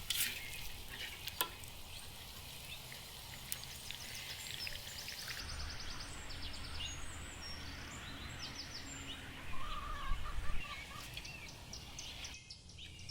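Outdoor ambience with birds chirping and trilling over a steady background hiss, and a few sharp clicks in the first couple of seconds.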